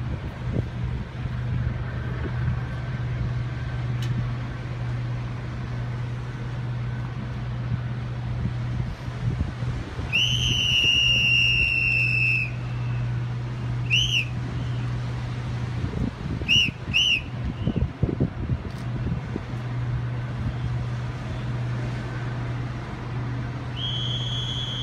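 Shrill whistle blown in a pattern: a long blast about ten seconds in, a short one, two quick short ones, then another long blast starting near the end. Under it runs a steady low hum.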